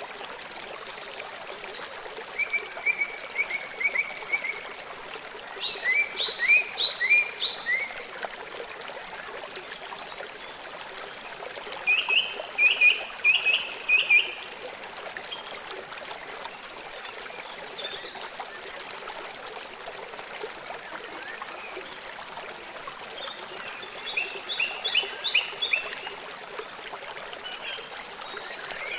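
A stream flowing steadily, with small animals calling over it in quick series of short chirping notes: four bouts, a few seconds in, at about six seconds, at about twelve seconds and at about twenty-four seconds. The chirps are louder than the water.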